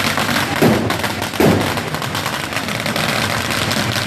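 Two loud firework bangs about a second apart, over a steady din of street crowd noise.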